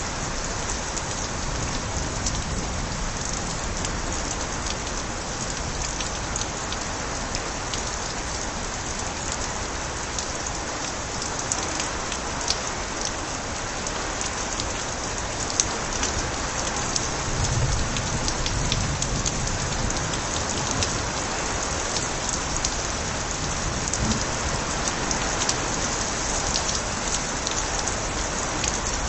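Steady rain with water spilling from overflowing gutters: an even wash of falling water dotted with sharp individual drop ticks. A low rumble comes in briefly a little past halfway.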